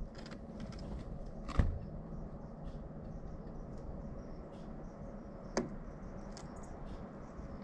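Pileated woodpecker striking wood: two single, separate knocks, a loud one about a second and a half in and a softer one near six seconds, over faint high chirps and ticks.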